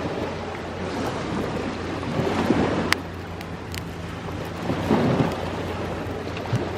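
Ocean waves washing ashore, swelling twice, with a wood campfire crackling and giving a few sharp pops.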